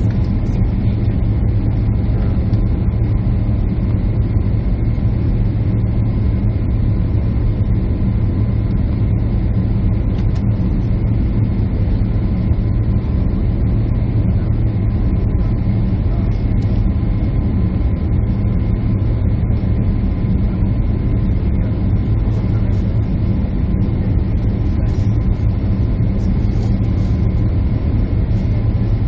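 Steady jet airliner cabin noise: the rumble of the engines and air rushing past the fuselage, with a constant low hum.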